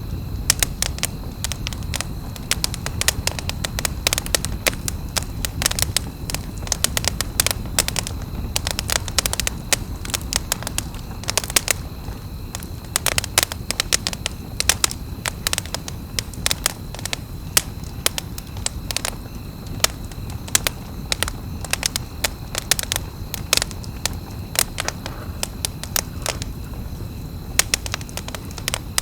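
Campfire crackling: irregular sharp pops and snaps, many a second, over a steady low rumble.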